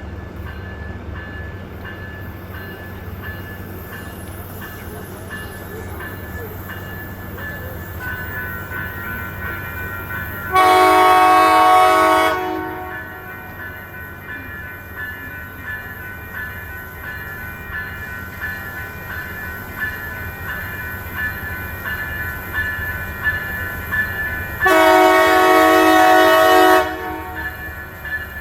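Amtrak train led by Siemens Charger diesel locomotive IDTX 4632 sounding its multi-note air horn in two long blasts about fourteen seconds apart, over the steady rumble of the approaching train.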